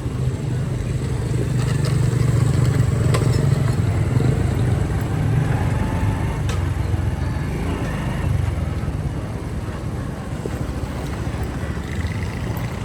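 Motorcycle engine running steadily under way, a low rumble with road noise, easing off slightly in the second half.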